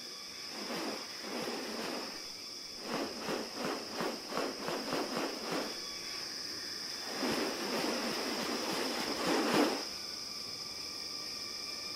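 Rainforest insects making a steady high-pitched drone, with harsh rasping bird calls over it: a couple at first, then a quick run of about nine short rasps, then a longer rasping stretch that is loudest near its end.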